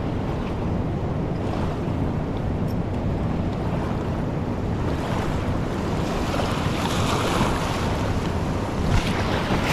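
Fast, swollen river rushing steadily, with wind on the microphone. A short knock just before the end.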